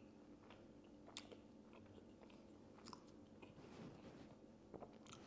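Faint close-up chewing of crisp lachha paratha with paneer curry, with a scattering of soft mouth clicks and small crunches.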